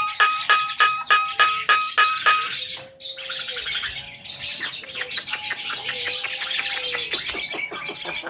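Javan myna calling: a run of short, evenly repeated notes about four a second, then after a brief pause thin whistled tones that rise and fall gently, with busy high chirping behind throughout.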